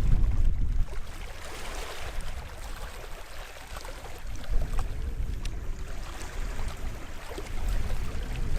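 Sea waves washing onto the shore of the bay, the wash swelling and fading, with a deep low rumble at the start and again near the end.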